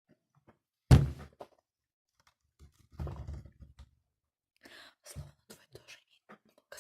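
A sudden loud thump about a second in, then softer knocks and rustling handling noises close to the microphone.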